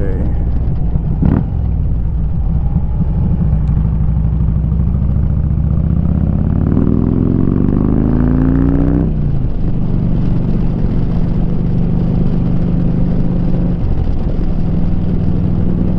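Harley-Davidson motorcycle's engine through a Rinehart 2-into-1 exhaust, running steadily while riding, then pulling harder with the pitch rising for about three seconds before it drops suddenly as the throttle is eased or a gear is changed, then settling back to a steady cruise.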